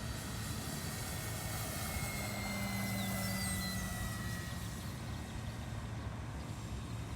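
Electric RC model airplane (E-flite Carbon Z Cessna 150, brushless motor on a 6S pack) flying, its motor and propeller giving a steady whine that swells slightly and falls a little in pitch midway, as with a pass.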